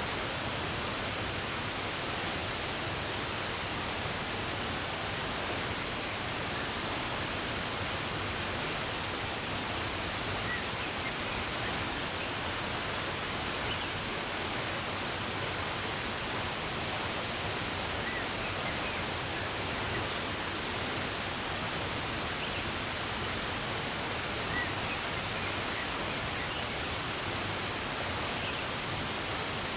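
Running water, a steady even rush, with a few faint, brief bird chirps scattered through it.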